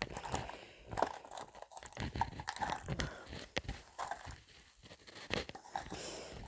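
Crisp meringue cookies crunching and crackling as they are bitten and chewed close to the microphone, in many irregular sharp crackles.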